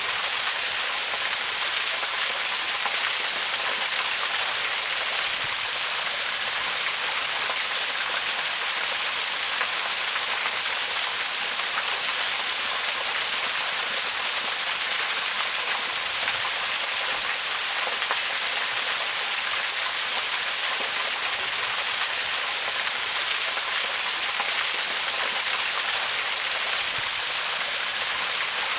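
Waterfall: a steady, even rush of falling water, heard mostly as a bright hiss with little low rumble.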